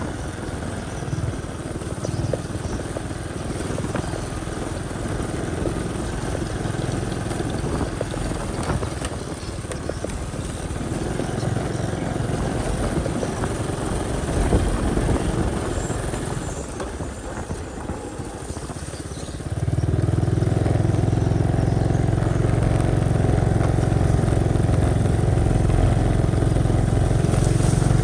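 Motorcycle engine running while riding. About two-thirds of the way in it turns suddenly louder, into a strong, steady low engine note that holds.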